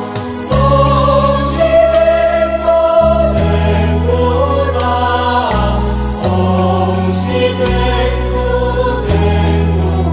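Buddhist devotional hymn praising Guanyin, sung by a choir over long held low chords, with a light percussion beat about twice a second.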